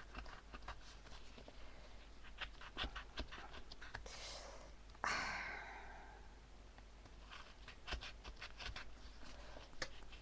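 Thin chipboard being cut by hand: a run of small clicks and scratches as the blade works round the circle, with a longer rasping scrape about five seconds in.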